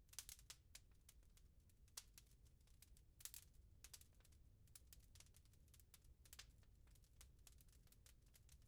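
Wood fire crackling in a fireplace: faint, frequent small snaps and pops over a low steady rumble, with a few louder pops near the start and a few seconds in.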